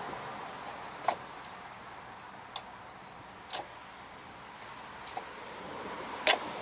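Five short, sharp clicks and knocks of small parts being handled on a snowblower engine, spread over several seconds with the loudest near the end, over a steady high-pitched whine.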